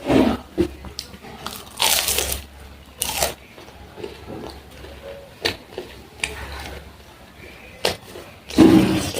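Close-miked eating sounds: irregular bites and chewing, with the loudest bursts about two and three seconds in and again near the end.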